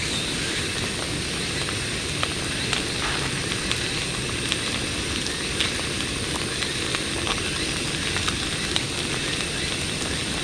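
Campfire crackling: irregular sharp pops and snaps of burning wood over a steady rumbling hiss.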